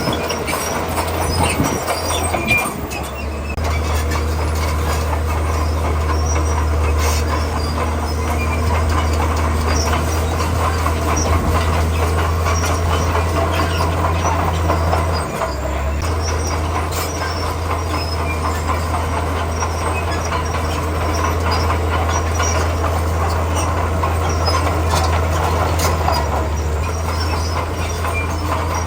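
Komatsu D41P crawler bulldozer working, its diesel engine running steadily under load with the clanking of its steel tracks.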